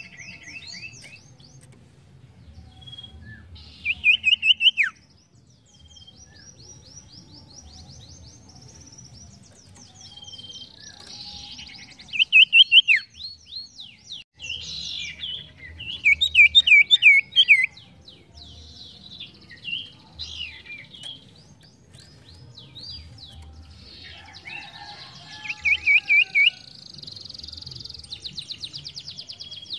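A sirtu (pied triller) singing: loud bursts of rapid, chattering trills come four times, one ending in a quick downward slur, with softer, higher trills running between them.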